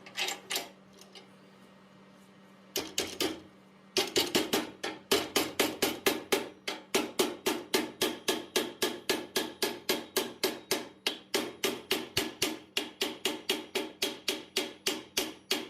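Fast, even hammer blows on hot steel at the anvil, about three to four a second, flattening the opened-out split section of the bar. A few scattered blows come first, then a steady run of strikes starts about four seconds in.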